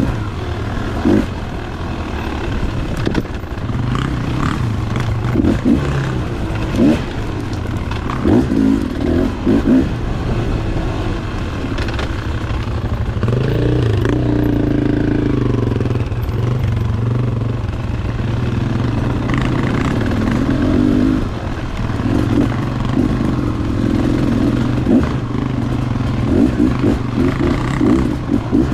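Two-stroke dirt bike engine running under way, the throttle opened and closed in short bursts, with a longer rise in revs about halfway through.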